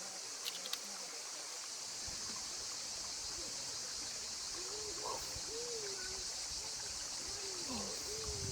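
Steady, high-pitched chorus of cicadas, with faint distant voices from about three seconds in.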